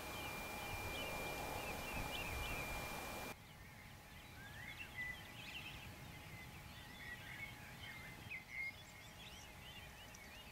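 Small birds singing, many short chirping phrases overlapping. About three seconds in, a steady background hiss and a thin high whistle cut out and the birdsong comes through more clearly.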